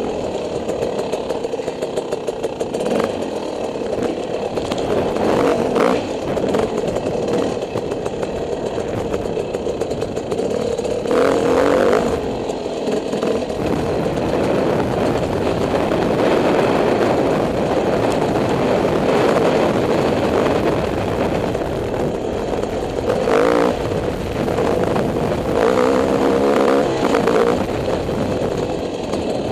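Dirt bike engine running while being ridden, its revs rising and falling, with a few brief knocks.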